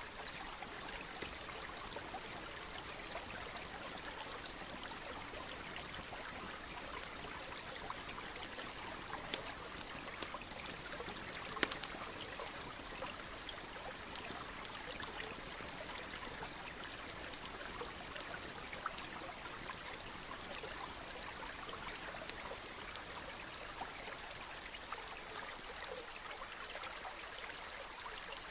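Steady rushing and trickling of a stream, with scattered sharp crackles and pops of a wood campfire; the loudest pops come about twelve seconds in.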